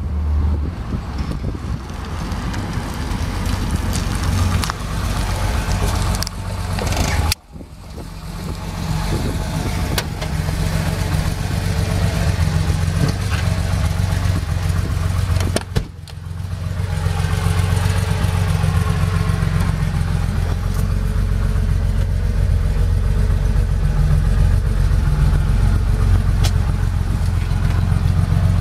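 The air-cooled 3.0-litre flat-six of a 1978 Porsche 911 SC running, at first as the car drives up. After two brief breaks it settles into a steady idle.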